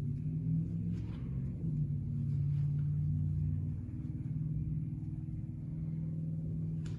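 2007 Nissan Frontier's 4.0-litre V6 running steadily at a low engine note, with a sharp click about a second in and another near the end.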